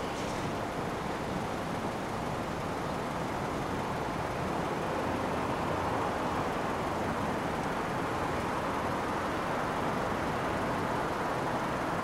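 Freight wagons rolling slowly past over the station tracks, a steady rumble of wheels on rail that swells slightly midway.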